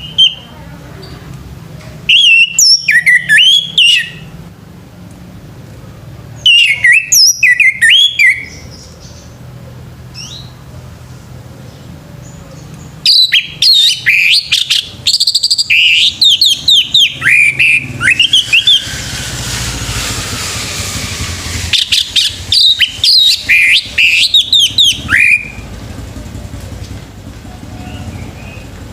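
Male orange-headed thrush singing loud bouts of fast, varied whistled phrases, four bouts in all with short pauses between. A rushing noise swells and fades in the middle, under the longest bout.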